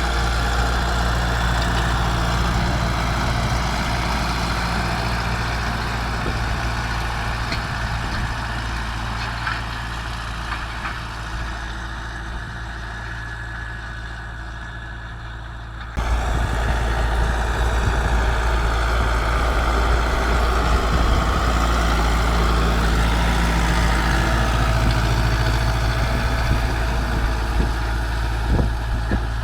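Zetor 9540 tractor's four-cylinder diesel engine running steadily under load, pulling a stubble cultivator. The engine fades gradually over several seconds, then cuts back suddenly to full loudness partway through.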